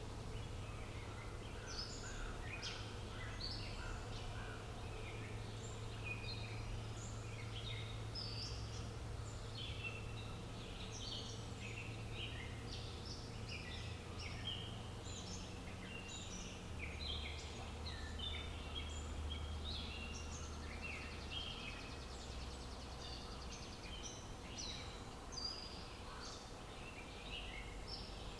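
Dense chorus of many small birds chirping and singing in quick overlapping calls, over a steady low rumble.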